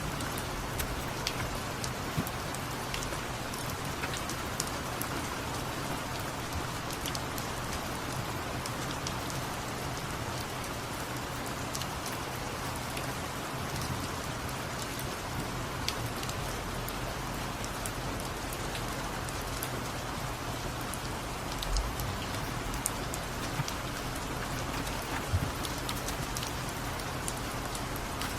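Steady rain falling, an even hiss dotted with small drop ticks, over a faint low hum. There are a couple of soft knocks in the last third.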